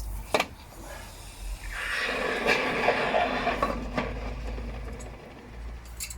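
A sharp clink, then a rough hiss that swells for about three seconds and fades, with a few small clicks near the end.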